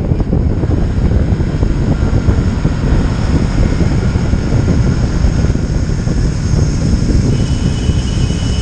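Loud, steady wind roar buffeting the microphone of a camera on a moving motorcycle, with the bike's running noise blended in underneath.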